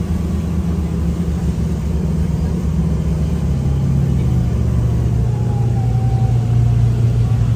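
Speedboat engine running steadily under way, a loud low drone whose pitch drops slightly about halfway through.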